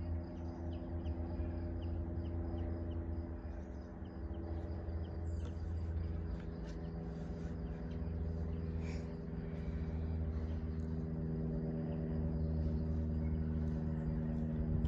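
Outdoor ambience: scattered short, high bird chirps and insect calls over a steady low hum.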